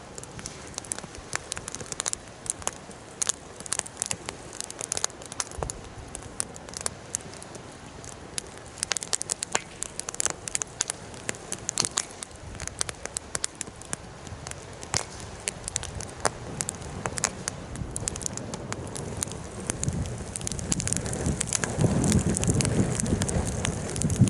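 Wood fire burning, crackling with frequent sharp snaps and pops over a steady hiss. A louder low rush swells in about twenty seconds in and lasts to the end.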